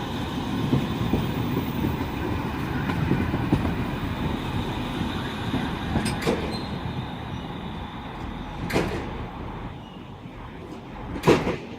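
Manchester Metrolink Bombardier M5000 tram pulling in, a steady loud running noise of wheels on rail that eases off as it slows, with a few sharp clicks along the way.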